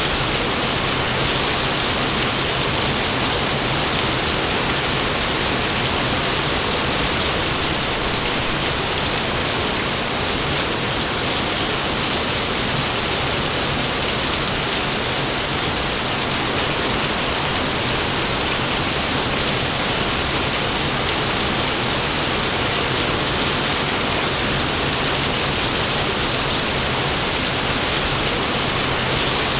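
Heavy rain falling steadily, a dense even hiss with no thunder in this stretch.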